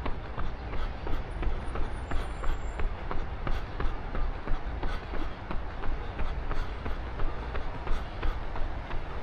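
A runner's footfalls on pavement, an even beat of about three steps a second, over a steady low rumble.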